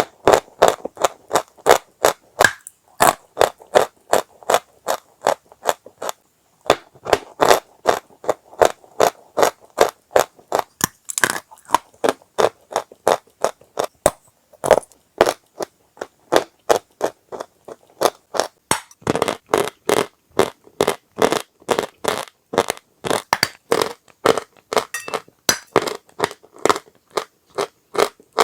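Dry chalk crunching in a rapid run of sharp crunches, about three a second, with a few short breaks.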